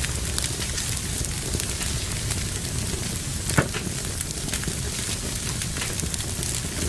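Fire burning in a fireplace, crackling steadily with many small snaps and one louder pop about three and a half seconds in.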